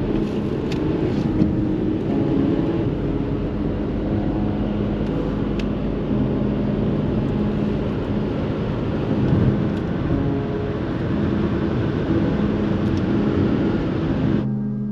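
Scania truck driving: steady engine running under a constant rush of road noise, with a few faint clicks. It cuts off abruptly just before the end.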